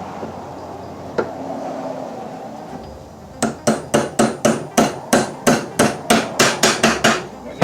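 A hammer striking rapidly and evenly, about four blows a second, beginning about three and a half seconds in, as a front driveshaft U-joint bearing cap is driven into its yoke.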